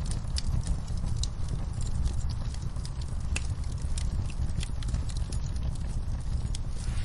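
Wood fire burning: a steady low rumble with frequent irregular sharp crackles and pops of burning wood.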